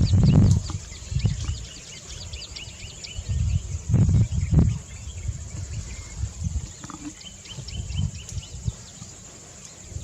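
Wild outdoor ambience: a steady high-pitched insect drone with runs of quick bird chirps. The chirps are dense at the start and come back around six to eight seconds in. Uneven low rumbles sit underneath, loudest at the start and again about four seconds in.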